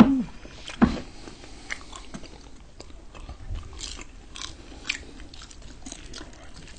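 Close-up eating sounds of two people chewing and biting crispy fried chicken and noodles: scattered crisp crunches and mouth noises. A short hummed 'mm' opens it, and a single knock comes about a second in.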